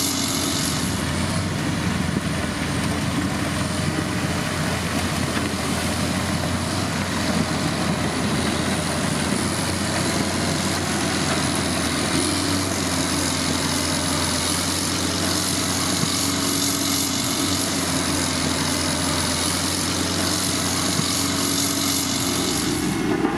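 Heavy road-construction machine's diesel engine running steadily, with a thin high whine above it.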